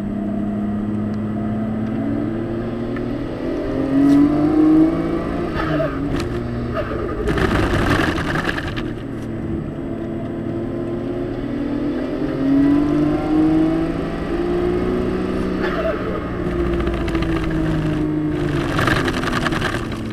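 Car engine heard from inside the cabin on a track lap, its pitch rising as it accelerates and falling as it lifts off, several times over. There are two short bursts of rushing noise, about seven seconds in and again near the end.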